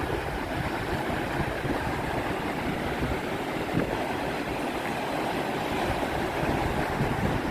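Mediterranean sea surf: a steady rush of waves breaking and washing in.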